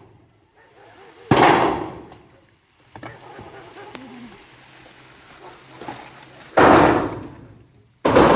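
Three heavy impacts, about a second in, near the middle-late part and at the end, each hitting sharply and dying away over about half a second, over a low steady background noise.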